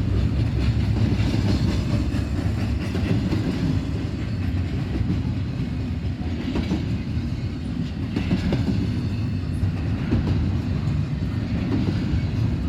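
Cars of a long double-stack intermodal freight train rolling past: a steady heavy rumble with wheels clicking over rail joints.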